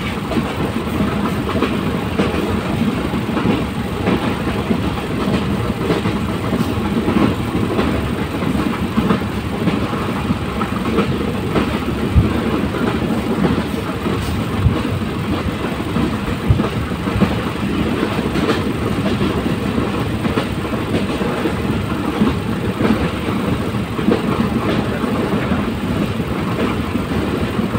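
Moving train running along the track: a steady rumble and rattle, with a few sharp knocks around the middle.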